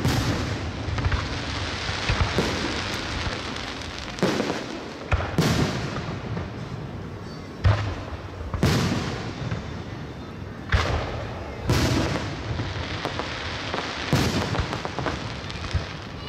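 Aerial firework shells bursting one after another in a display, a sharp boom every second or two over a continuous rumble and crackle between them.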